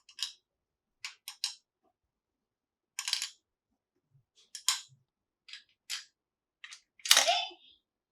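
Small plastic toy pieces and packaging being handled: a string of short, separate clicks and taps, with a louder, longer rustle about seven seconds in.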